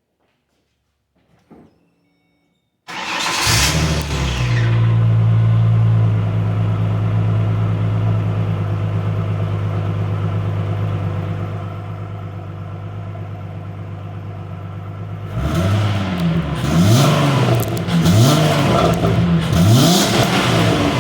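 2007 Ford Mustang's 4.0-litre V6 starting about three seconds in and running at a steady fast idle that drops a little lower, then revved in a series of quick blips near the end. It breathes through a junkyard stock Ford V6 muffler.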